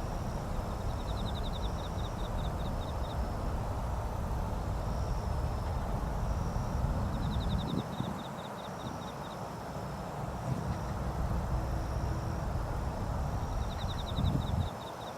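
Outdoor ambience: a steady low rumble, with a high, fast chirping trill that repeats about every six seconds, its chirps spacing out as each trill goes on.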